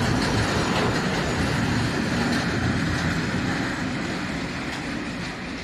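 Freight train wagons, a tank car and then empty flat wagons, rolling past close by: a steady rumble of steel wheels on the rails that fades as the tail of the train goes by.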